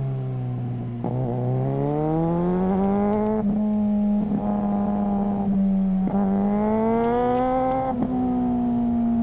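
Suzuki GSR600's inline-four engine breathing through a GPR Ghost exhaust, pulling hard under acceleration: the revs climb twice and each time drop suddenly as the quickshifter snaps through an upshift.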